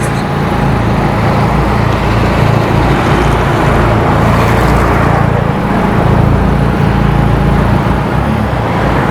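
Car driving on a city street: steady road and wind noise with a heavy low rumble.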